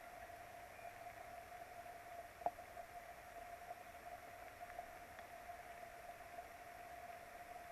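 Steady hiss of rain on a nest camera's outdoor microphone under a constant thin whine, with one sharp tick about two and a half seconds in.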